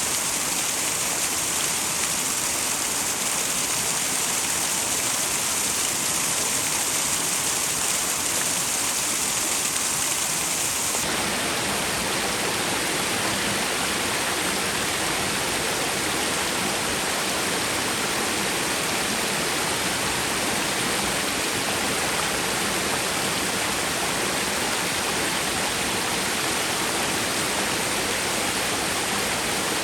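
A small twin waterfall pouring into a mountain stream, a steady rush of falling and splashing water. About eleven seconds in the sound shifts abruptly from a brighter hiss to a fuller, lower rush.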